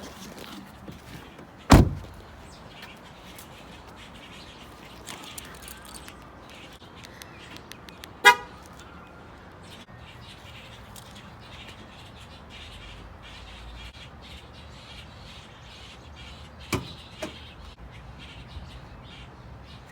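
A car door thuds shut near the start and again near the end. About eight seconds in there is a short pulsing horn-like toot from the minivan.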